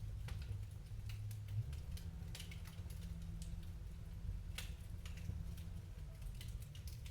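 Wood fire in a fireplace crackling: irregular small pops and snaps, one sharper pop a little past the middle, over a low steady rumble.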